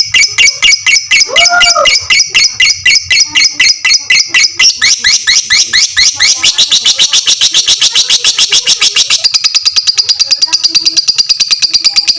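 Lovebird ngekek: a long, unbroken string of rapid, shrill chirps, loud and even, speeding up partway through into a faster chatter.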